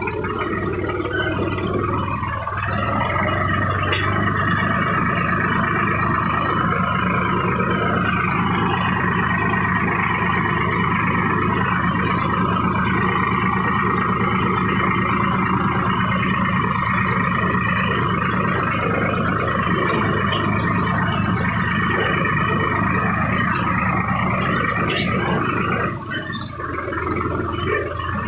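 Sonalika Sikander DI-47 RX tractor's diesel engine running steadily, dipping briefly near the end.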